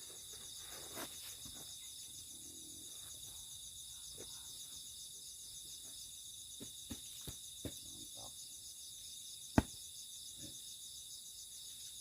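Night insect chorus of crickets: a steady, high, finely pulsing trill. Over it come a few soft knocks and rustles and one sharp knock about three-quarters of the way through, from mats being handled on the hut floor.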